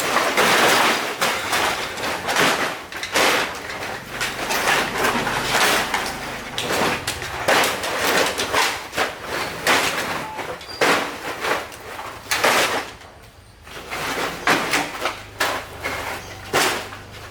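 Scrap being handled and loaded for weighing: a run of clattering knocks, clanks and scrapes, many short impacts in quick succession, with a brief lull about thirteen seconds in.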